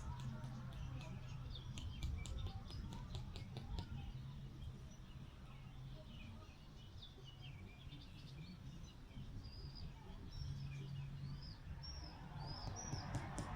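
Small birds chirping, with many short rising and falling calls and a quick run of ticking notes in the first few seconds, over a low wind rumble.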